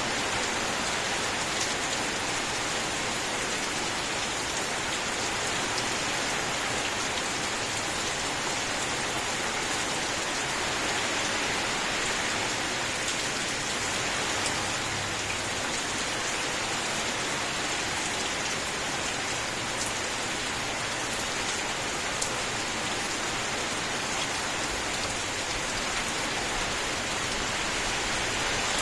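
Steady heavy rainfall, a dense even hiss of drops hitting surfaces, with a few faint drip ticks standing out now and then.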